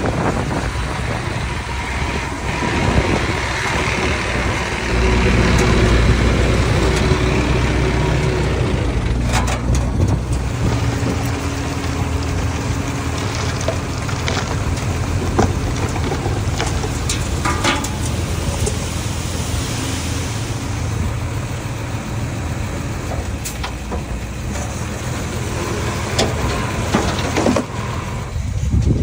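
A small bulldozer's diesel engine running steadily under load, working harder for a few seconds about a fifth of the way in, with occasional sharp knocks.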